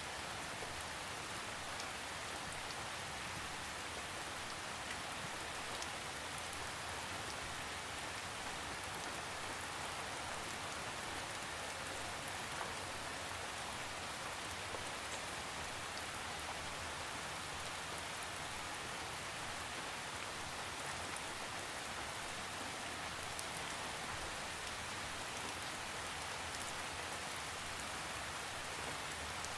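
Steady rain falling on a surface, an even hiss with faint scattered drop ticks and no thunder.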